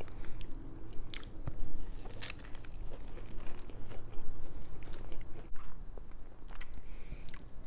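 Close-miked chewing of a biscuit sandwich with a vegan tender and cheese, with scattered short wet mouth clicks and smacks.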